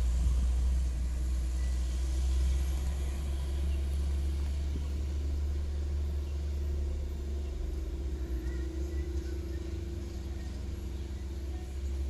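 Diesel engine of a heavily loaded sugarcane truck labouring up a steep grade: a steady low rumble, with a held engine drone that swells and climbs slightly in pitch partway through.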